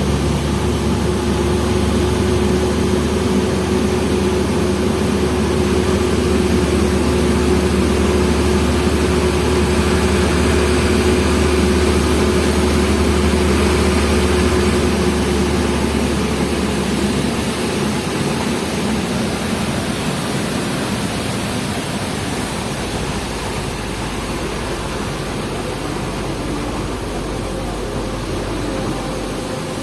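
Hino FL 260 JT truck's six-cylinder diesel engine running with a steady low drone and a thin whine above it. About halfway through, the whine stops and the engine note drops lower and a little quieter.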